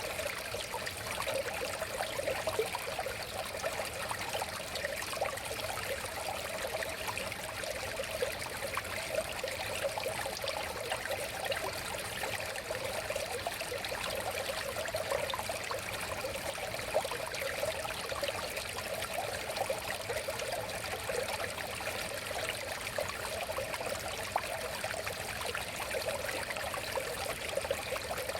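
A river flowing steadily, with a continuous babbling trickle of water over shallows.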